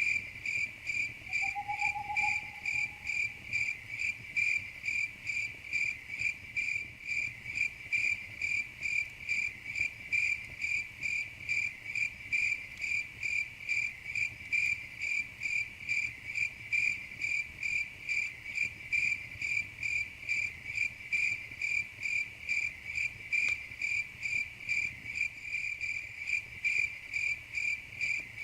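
Crickets chirping in a steady, even rhythm, about two to three high-pitched chirps a second.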